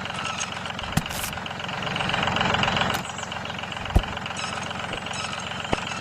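Tractor engine idling steadily, with a louder noisy stretch about two seconds in and a few sharp clicks.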